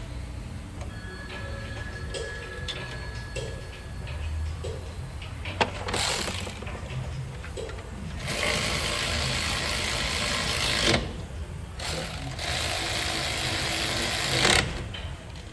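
Mechanic's tool work: scattered light clicks and rattles, then two long hissing bursts of about two to three seconds each, a short pause between them.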